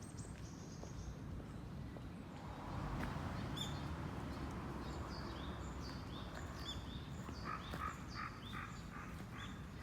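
Small birds calling outdoors in short, high, quickly repeated chirps from a few seconds in, over a steady low background rumble. Near the end they are joined by a run of lower calls, about three a second.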